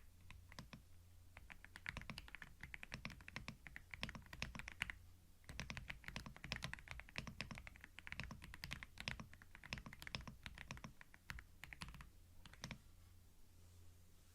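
Computer keyboard being typed on in quick runs of key clicks with short pauses, trailing off near the end, recorded close on a binaural microphone for ASMR.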